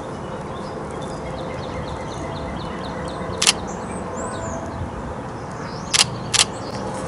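Canon 90D DSLR shutter firing three times, once about halfway through and then two quick shots near the end. Behind it, birds calling: a quick run of short high notes, about four a second, in the first half, and a few high swooping notes.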